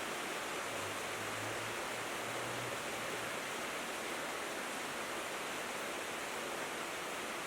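Steady rain falling on a tin roof, an even hiss with no pauses.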